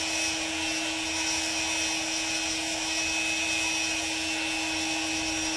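Dremel rotary tool running at a steady speed, grinding and smoothing a parrot's nails, with an even motor whine.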